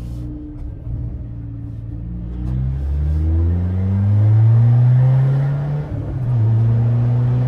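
Straight-piped Peugeot 206 four-cylinder engine under hard acceleration, its pitch rising steadily for several seconds. There is a brief dip in the sound about six seconds in, then the engine holds a steady, higher note.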